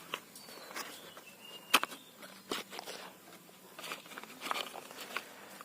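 Irregular light clicks, taps and rustles of small things being handled.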